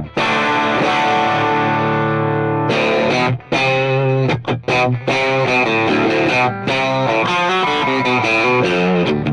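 Overdriven electric guitar: a Strat on its bridge pickup through an Xotic RC Booster with the gain up, treble boosted and bass cut, into a Fractal FM9 modelling a Matchless DC30. A chord rings for about two and a half seconds, then the riff goes on in short, choppy chord stabs with brief gaps.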